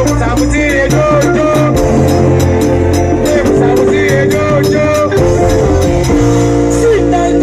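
Loud live band music with a steady beat.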